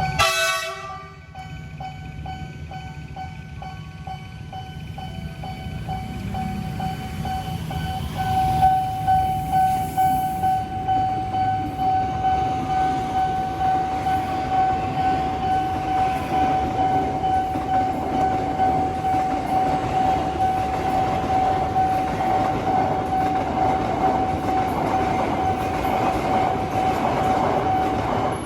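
Electronic level-crossing warning bell (Nippon Signal type) ringing in a steady repeated single tone. A train approaches and passes: its rumble and wheel noise builds from about six seconds in and stays loud.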